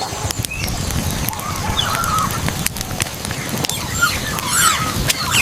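Animal squeaks and chirping calls, some warbling, over a run of sharp clicks and knocks and a steady low rumble.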